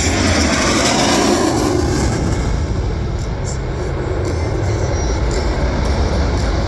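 Jet noise from a pair of Boeing EA-18G Growlers making a low, fast pass. The pitch slides down over the first two seconds as they go by, then settles into a steady deep rumble as they draw away.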